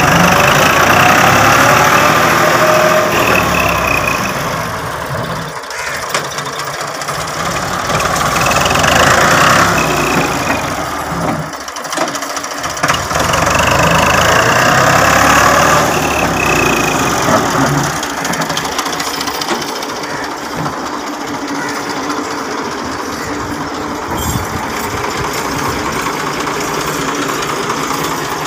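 1984 Ford 4610 tractor's three-cylinder diesel engine revved up and back down three times, then idling steadily for the last ten seconds or so.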